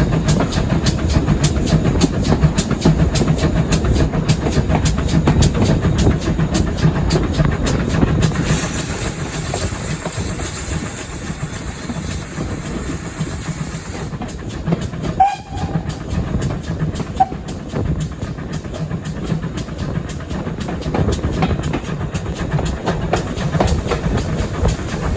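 Steam-hauled train running on the line: a steady rumble under a fast, continuous clatter of wheels on rail. A high hiss joins about a third of the way in for several seconds.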